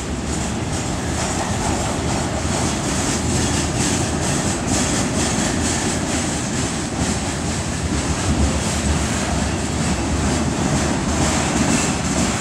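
Freight train wagons rolling past on the rails: a steady rumble with repeated clicks as the wheels cross the rail joints.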